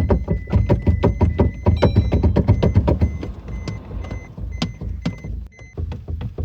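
A car engine cranking on the starter without catching: an even run of about five beats a second that weakens and turns uneven after about three seconds. A high dashboard chime beeps on and off over it.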